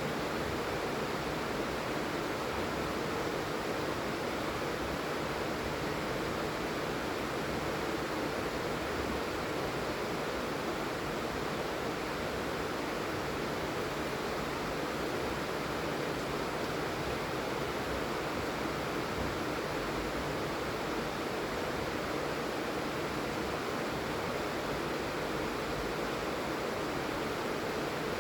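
Steady heavy rain falling, an even hiss without separate drops or breaks.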